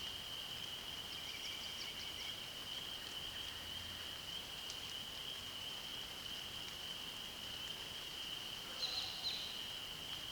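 A steady, unbroken high-pitched trill from a chorus of calling creatures in a meadow, over a faint hiss. A few faint bird chirps come early, and a louder short bird call sounds about nine seconds in.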